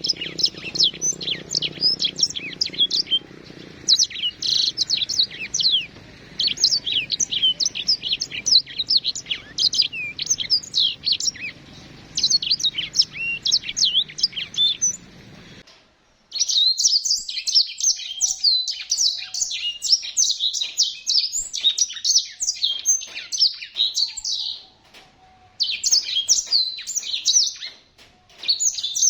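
Small canary-type finches, sanger (black-throated canary) and Mozambique (yellow-fronted canary), singing continuously in a rapid, high twittering song from a colony aviary. A low steady hum sits under the song in the first half and stops abruptly at a cut about halfway, after which the song is clearer with a few short pauses.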